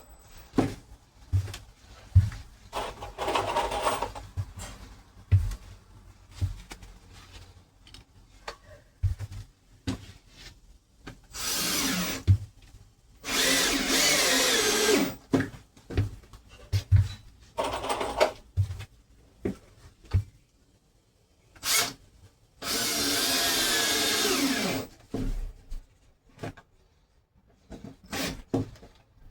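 Power drill running in three short runs, the longest about two seconds, its pitch dropping as it loads up, between scattered clicks and knocks of handling.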